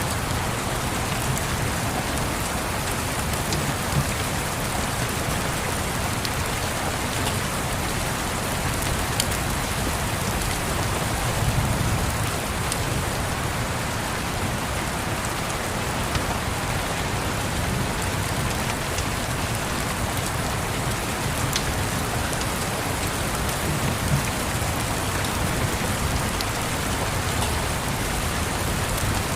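Steady rain pattering, with a soft low rumble of distant thunder swelling about twelve seconds in. A few faint pops from a wood fire are scattered through it.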